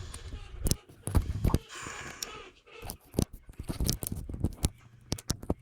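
Irregular knocks, clicks and scraping with a rustle of loose pine shavings while chicken droppings and old bedding are cleaned out of a coop.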